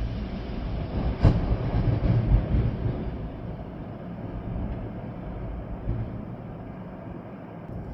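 Strong storm wind and rain, with a heavy low rumble of gusts buffeting the microphone, easing somewhat after the first few seconds, and a brief sharp knock about a second in.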